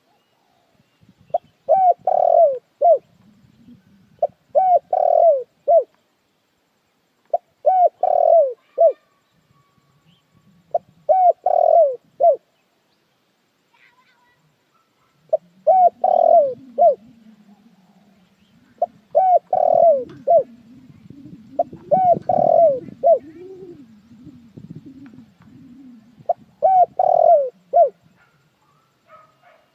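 Spotted dove cooing, a decoy bird's call phrase of three or four notes repeated eight times, one every three to four seconds. A fainter, lower wavering sound runs under the second half.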